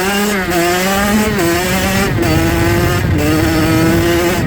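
Dirt bike engine running under way at steady revs, its note climbing just before and then holding, with a few brief dips. Wind noise on the helmet-mounted microphone underneath.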